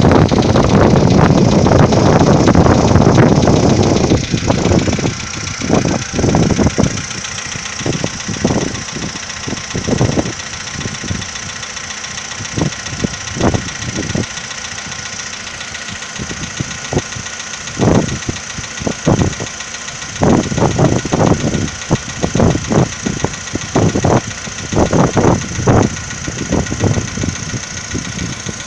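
2015 Volkswagen Polo Sedan's petrol engine idling, louder and denser for the first four seconds, then steadier with irregular knocks on top. The knock is the one the owner questions as possible piston slap.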